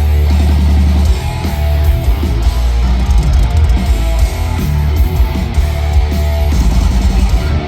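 Heavy metal band playing live and loud: distorted electric guitars over bass and drums.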